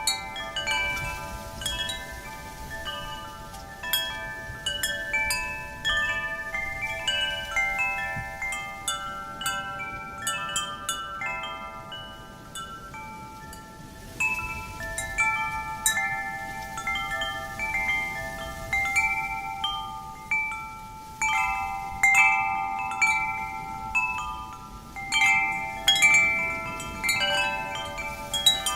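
Metal wind chimes struck irregularly by the wind, many overlapping bell-like tones ringing on and fading, with a soft rush of wind beneath; the chimes thin out briefly near the middle.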